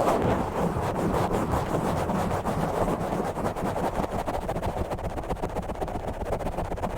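Rough, fast scratching and rubbing directly on the bare microphone, a continuous dense rasp heavy in the low end.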